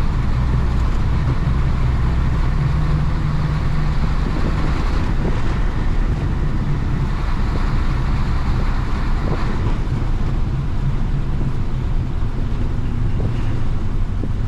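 1966 Isuzu BXD30 bonnet bus's DA640 diesel engine running as the bus drives along, heard from inside the bus, with road noise. The engine note shifts in pitch a couple of times.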